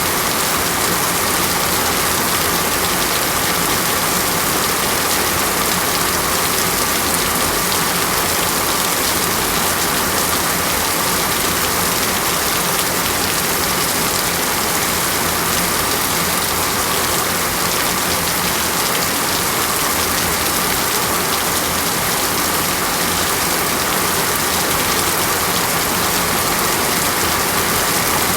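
Steady rainforest rain falling without a break, an even hiss.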